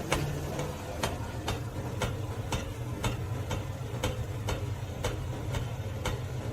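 Steady ticking, about two ticks a second, over a constant low hum.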